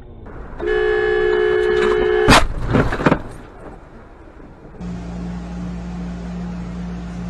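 A car horn blares steadily for nearly two seconds, then a loud crash: a sharp impact followed by a few more knocks. A steady low drone follows, starting a little after the middle.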